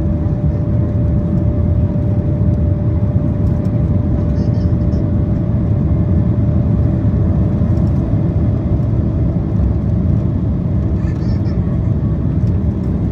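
Cabin noise inside a Boeing 767-400ER airliner on final approach: a steady low rumble of engines and airflow, with a faint steady hum over it.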